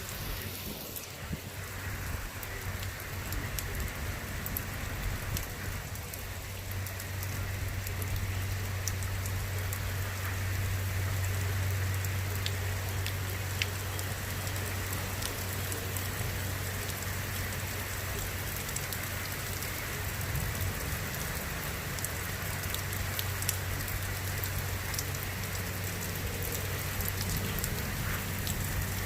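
Rain falling steadily in a thunderstorm: an even hiss dotted with the ticks of drops striking surfaces, over a steady low rumble.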